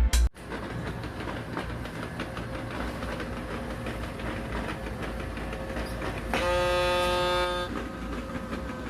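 Small sweeper robot vacuum running, a steady whir with faint rapid clicking. About six seconds in, a steady horn-like tone sounds for over a second.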